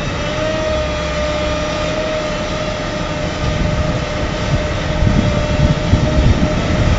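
A heavy machine's engine running with a steady whine, and a low rumble that grows louder from about three and a half seconds in.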